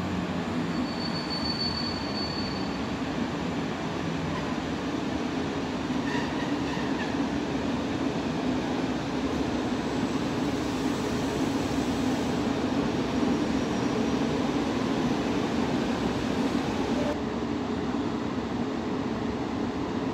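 EP09 electric locomotive hauling passenger coaches slowly into a station, a steady rumble of wheels and running gear that grows a little louder as it nears. A brief high-pitched squeal sounds about a second in.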